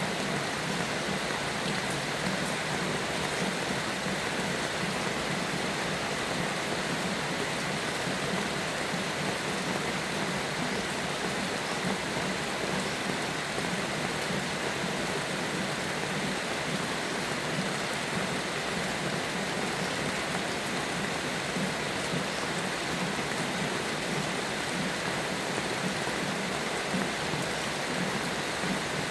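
Steady rain falling, an even hiss with faint scattered drop ticks and no change in level.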